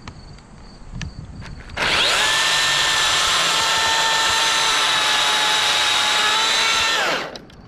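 Chainsaw run at full speed for about five seconds, spinning up quickly about two seconds in and winding down near the end, with a steady high whine over the noise of the chain.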